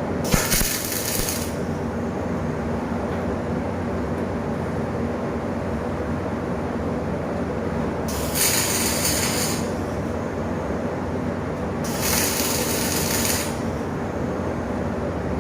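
Fillet welding arc struck three times in short bursts of about a second and a half each, a bright hiss over a steady workshop hum.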